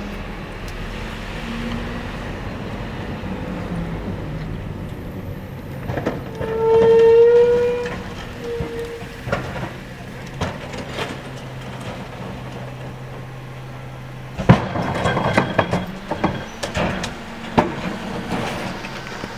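Garbage truck running with a steady engine hum. About a third of the way in comes one loud, slightly rising tone lasting about a second and a half, and in the last third a run of clanks and bangs.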